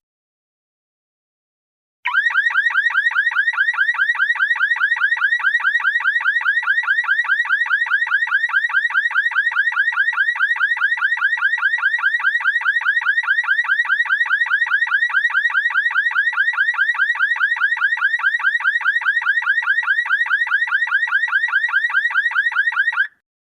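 Electronic car alarm siren sounding a rapid warble, each short note sweeping up in pitch and repeating many times a second. It starts about two seconds in, holds steady for about twenty seconds, and cuts off suddenly near the end.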